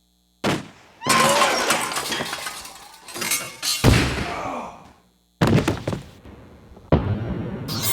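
Sound effects of a string of crashes and impacts: a sharp hit, then a big crash with breaking debris that dies away over a couple of seconds, a heavy low thud about midway, and two more sharp hits after a brief silence.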